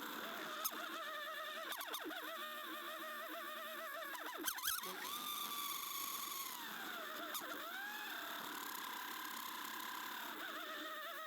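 Racing car engine heard from a distance, its pitch wavering, falling and rising again as it goes through the revs.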